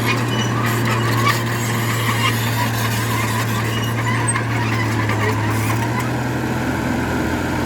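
Bulldozer working, its diesel engine running with a steady low drone, and short high squeaks and clicks scattered over it.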